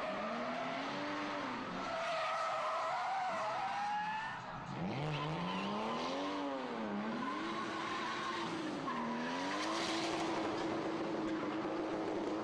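Racing car engine revving, its pitch rising and falling several times, with tyres squealing.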